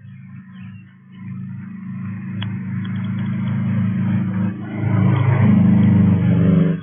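An engine running and growing steadily louder over about five seconds, as a vehicle draws near, then cutting off suddenly.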